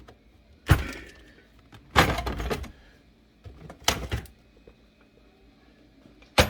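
Plastic ice bucket being pushed into its housing in a fridge's ice maker, knocking and clattering several times without latching. A sharp knock comes about a second in, then a longer rattling clatter, two lighter knocks, and a last sharp knock near the end. He takes the failure to lock for some ice in the way.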